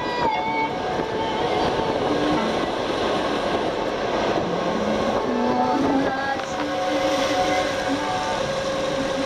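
Steady rushing noise of a ferry under way: engine rumble mixed with wind on the microphone.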